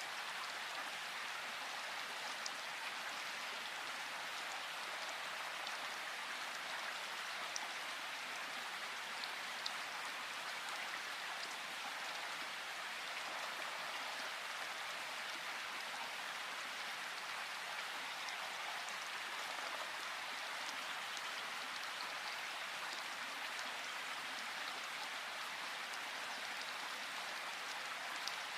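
Steady rain falling in a forest, an even hiss with occasional individual drops ticking close by.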